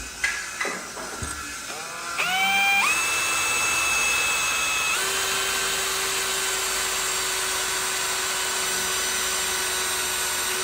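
Electric power tool with a few brief trigger blips, then its motor spinning up about two seconds in to a steady high whine. It steps up in speed once more about halfway through and runs on evenly.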